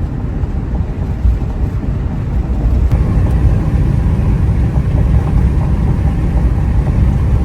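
Van driving on the road: a steady low rumble of road and engine noise.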